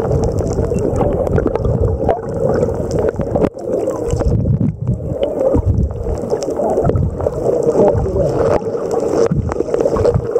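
Water gurgling and sloshing close to the microphone over a steady low hum, with scattered crackles.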